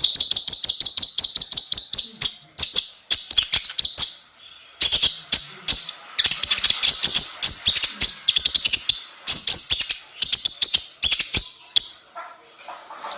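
Konin (kolibri ninja) sunbird singing: fast, high-pitched runs of sharp chirps, broken by brief pauses between phrases.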